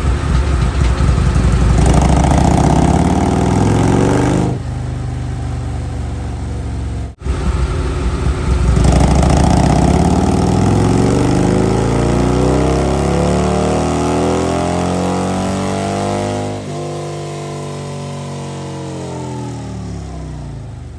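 Harley-Davidson Street Glide's V-twin engine run on a dyno. A loud stretch at high throttle is followed, after a cut, by a long pull whose pitch climbs steadily. Then the throttle closes at around sixteen seconds and the engine winds down quieter.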